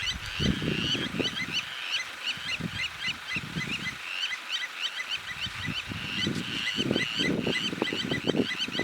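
Blacksmith lapwings giving their sharp, metallic alarm calls over and over, several a second, in defence of their nest. Irregular low rumbling noises run underneath.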